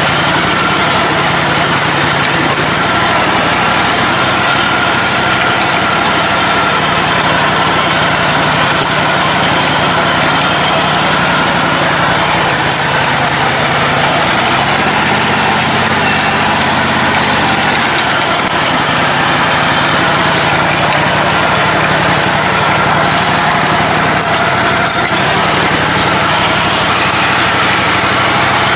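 Lifted riding mower's engine running steadily as it drives, with a brief shift in engine pitch about halfway through.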